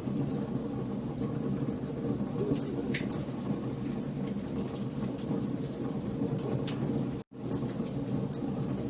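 Wood fire burning in a fireplace: a steady low rumble of flames with frequent sharp crackles and pops. The sound cuts out for an instant about seven seconds in.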